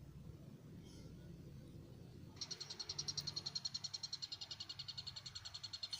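Lovebird chick calling in a rapid, high-pitched chatter of about ten pulses a second, starting a little over two seconds in.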